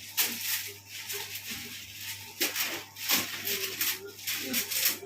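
Plastic accessory packets being handled and rummaged through, rustling and rattling in a series of short bursts.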